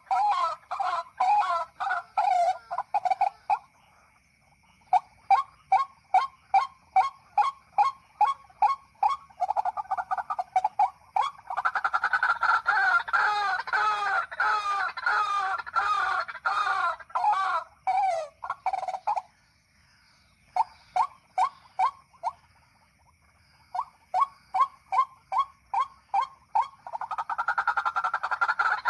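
White-breasted waterhen calls: a long run of short, repeated croaking notes, two or three a second. The calls thicken into a denser overlapping chorus mid-way and break off briefly a few times.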